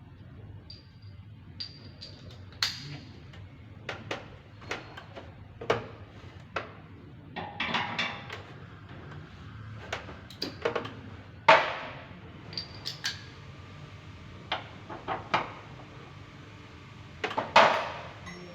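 Irregular knocks and clinks of hard objects being handled, about a dozen spread over the stretch. A short rattle comes around eight seconds in, and the loudest knocks come about two-thirds through and near the end.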